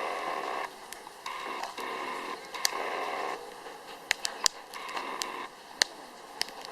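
Wood fire crackling in a fire-pit stand, with sharp pops from the burning logs every second or so, over a hiss that swells and fades.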